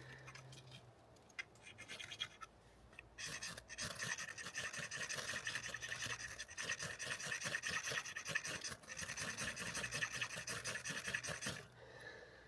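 Fast, continuous scratchy crackling from about three seconds in until near the end, after a few scattered clicks at the start.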